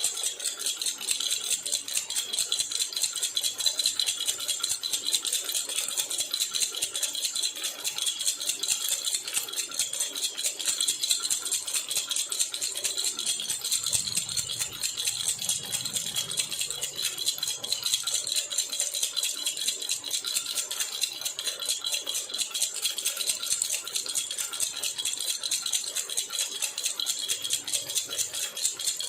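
A jhunjhuna, a baby's hand rattle, shaken rapidly and without a break, making a steady, even jingling rattle.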